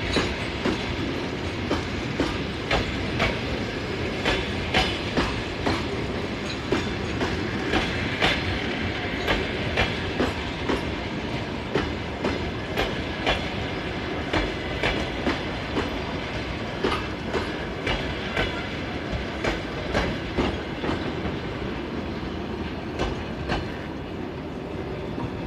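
Train wheels clicking over rail joints in a steady clickety-clack, often in pairs, over a continuous rolling rumble; the clicks grow a little quieter near the end.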